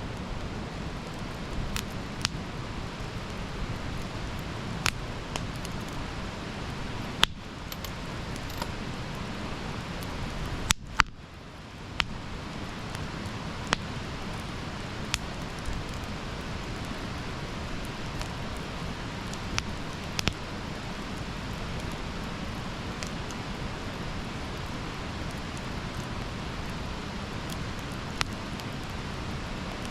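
Wood campfire burning: a steady low hiss and rumble with sharp, irregular crackles and pops every second or two, the sound dipping briefly about eleven seconds in.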